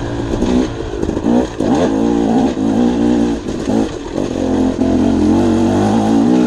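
Dirt bike engine running under throttle on a trail, its note rising and falling as the rider works the throttle, then holding steadier in the second half.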